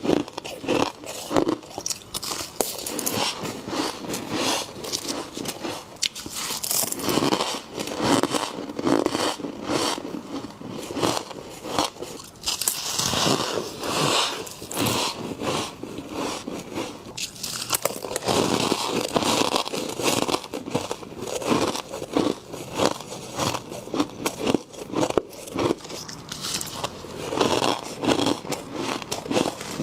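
A person biting into and chewing fluffy frost, a steady run of crisp, crackling crunches close to the microphone.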